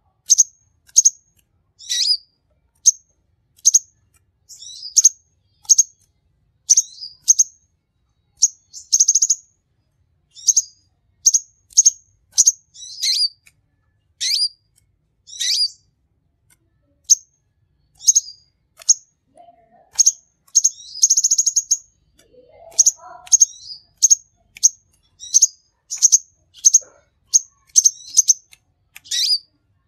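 Kolibri ninja ('King Konin') sunbird singing: a steady run of short, high, sharp chirps, one or two a second, some sweeping downward, broken by a buzzy trill about nine seconds in and a longer one about twenty-one seconds in.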